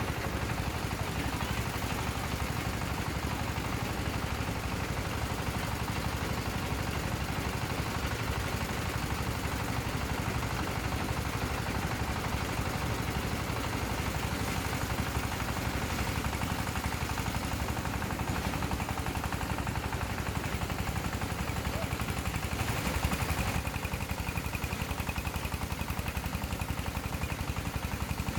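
Small engine running steadily with rapid, even pulses.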